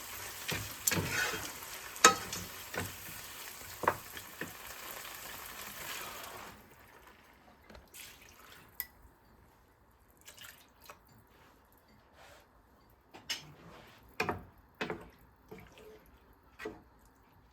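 Food sizzling in a frying pan, with the clicks and scrapes of a utensil stirring it. About six seconds in the sizzle stops abruptly, and a quieter run of scattered light kitchen knocks and clicks follows.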